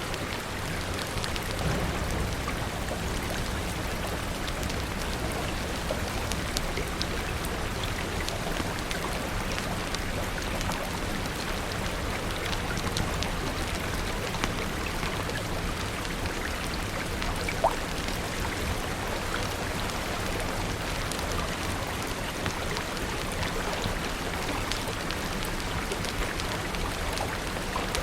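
Steady rain falling, with scattered small crackles and pops from a wood fire; one sharper pop comes about two-thirds of the way through.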